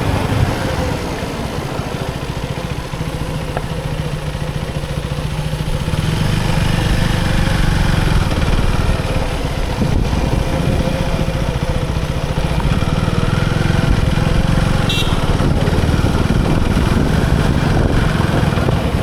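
KTM Duke 390 single-cylinder engine running under way while the bike is ridden, its note shifting up and down with the throttle.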